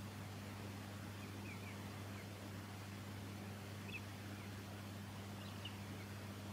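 Silvereye giving faint, short high chirps, scattered irregularly a few times a second or so, over a steady low hum.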